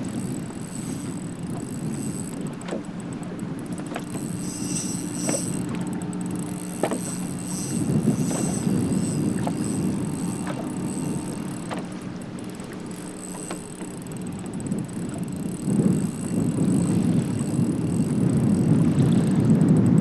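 Wind buffeting the microphone on a boat on the water, a rough steady rumble, with scattered light clicks and knocks through the middle.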